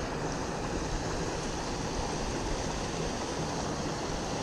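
Steady rushing of creek water, with an uneven low rumble of wind on the microphone.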